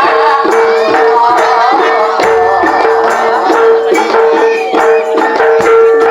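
Live East Javanese jaranan music: a percussion-led ensemble playing a steady beat, with a sustained tone held underneath and a wavering melody above.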